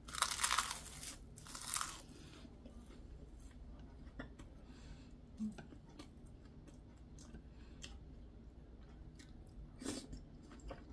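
Crisp roasted seaweed (gim) wrapped around rice crunching as it is bitten and chewed: two loud crunches in the first two seconds, then quieter chewing with a few faint clicks.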